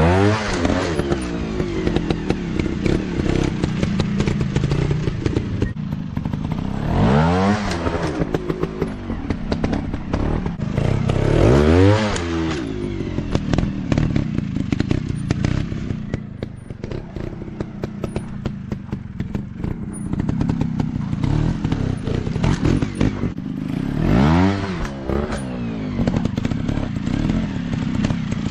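Dirt bike engines running on an off-road track. The engine pitch swells and falls away about four times as the throttle is opened and closed, with scattered clattering and knocks.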